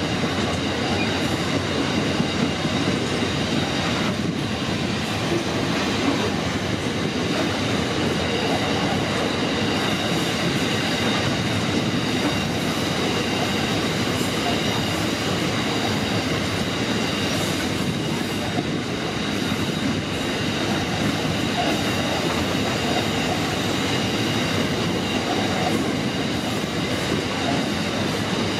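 Coal train's hopper wagons rolling past at steady speed: a continuous rumble of wheels on the rails, with thin, steady high tones over it.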